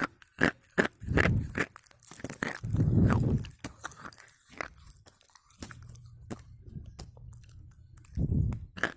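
Slate pencil being bitten and chewed, with crisp, brittle crunches coming in quick succession. They thin out past the middle and pick up again near the end.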